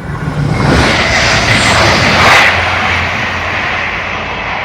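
Train passing through at speed. Its noisy rush builds quickly, peaks about two seconds in, then slowly fades.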